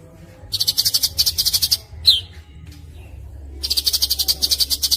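A songbird singing a fast, tightly packed trill of about ten notes a second, twice, with a single short falling whistle between the trills; a masteran recording of rapid 'speed rapat' birdsong.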